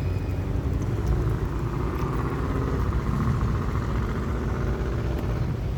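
A car engine running close by, a steady low rumble, with its pitch rising and falling about halfway through as it drives past.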